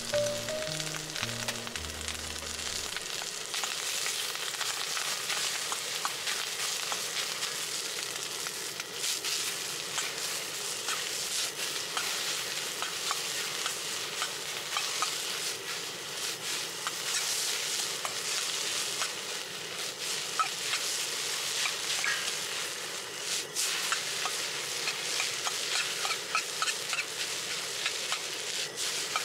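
Egg fried rice sizzling in a wok as a ladle stirs and scrapes through it. Scattered clicks of the ladle knock against the pan throughout.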